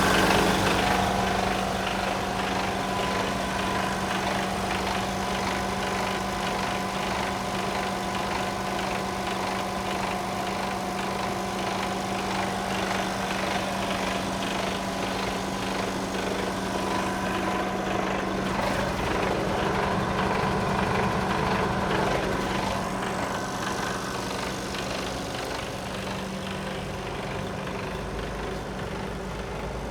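Mercedes Actros 1840 truck's 12.8-litre straight-six diesel engine idling steadily with a constant low hum, swelling slightly for a few seconds past the middle.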